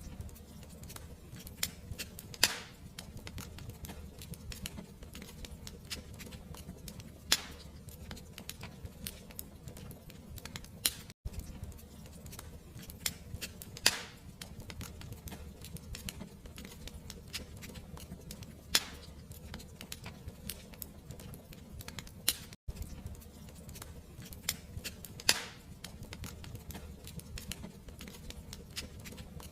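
Wood fire crackling in a fireplace: irregular sharp pops and snaps over a low steady rumble of the flames. The sound cuts out for an instant twice.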